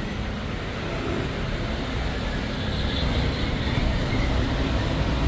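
Steady low rumble of motor vehicles and street traffic, with no clear single event, slowly getting a little louder.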